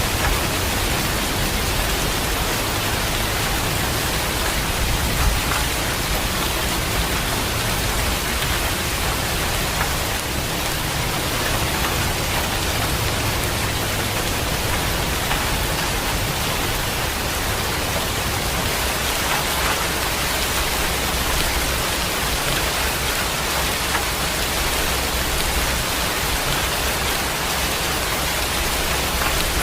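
Heavy rain falling steadily, an even hiss of drops, with a low rumble underneath.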